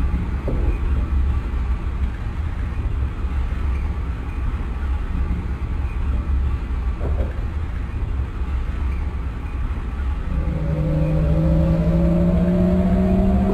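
Lisbon Metro ML90 train running with a steady low rumble; about ten seconds in, the traction motors' whine starts and slowly rises in pitch as the train accelerates.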